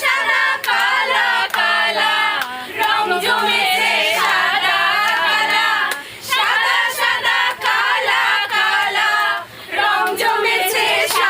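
A group of young women singing together without instruments, in sung phrases with two short pauses.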